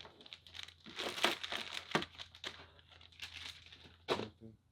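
Plastic packaging being crumpled and handled, with irregular bursts of crinkling.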